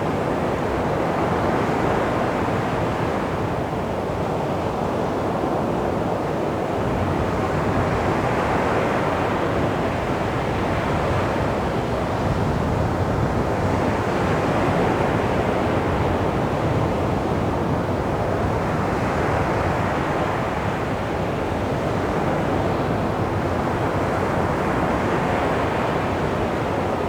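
Calm sea waves washing onto a beach, the surf swelling and easing in slow, steady surges every few seconds.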